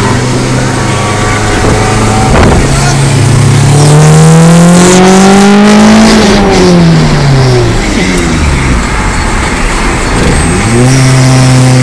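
GM LS V8 engine in a car under way: running steadily, then revs climb for about three seconds under acceleration, fall off as the throttle is let go, and rise again to hold steady near the end.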